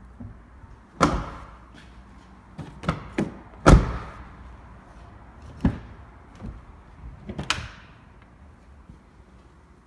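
Doors of a 2007 Dodge Ram Mega Cab pickup being opened and shut: a run of separate knocks and thumps, the loudest a little under four seconds in.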